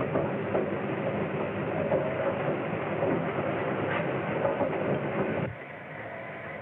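Steam train running at speed, loud and steady, cutting off suddenly about five and a half seconds in, leaving a quieter background hiss.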